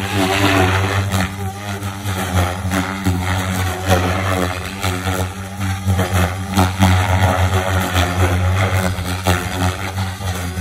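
Electric Oxy 5 HF RC helicopter in flight: a steady low hum from the spinning rotor, with loudness swelling and dropping in repeated whooshes of the blades as it manoeuvres.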